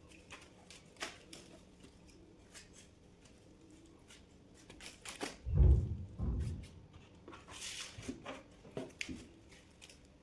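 Scattered light clicks and rustling handling noises, with two dull heavy thumps a little past the middle.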